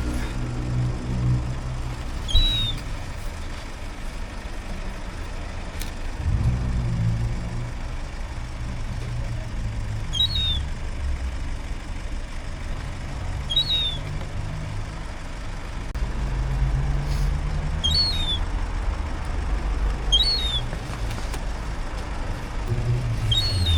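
A large vehicle engine, such as a truck or bus, runs with a steady low rumble that swells twice. Short high chirps sound six times, a few seconds apart.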